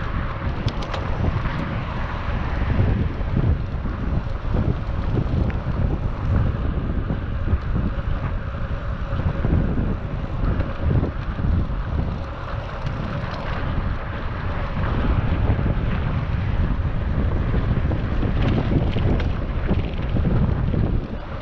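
Wind buffeting a GoPro action camera's microphone while riding a bicycle, a steady low rumble with rushing road noise underneath.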